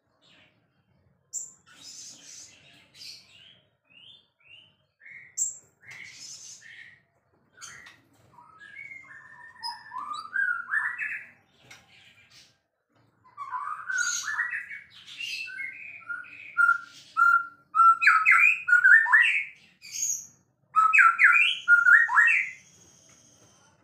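White-rumped shama singing a varied song of short whistled phrases and chirps broken by pauses. The song grows busier in the second half, and its loudest parts are quick runs of repeated notes near the end.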